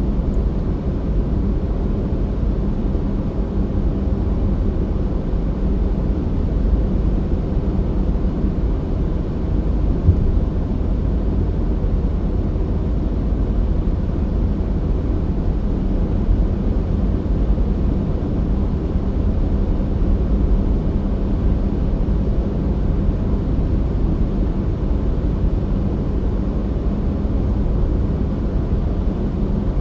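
Car driving at a steady speed: a continuous low rumble of road and engine noise with a faint steady hum.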